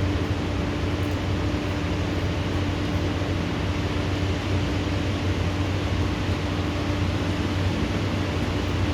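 Steady rushing noise of a thunderstorm downpour, unchanging throughout, with a steady low hum underneath.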